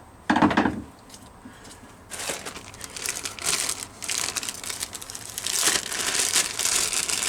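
Plastic packaging crinkling and rustling as it is handled, irregular and crackly, starting about two seconds in and going on, after a brief thump near the start.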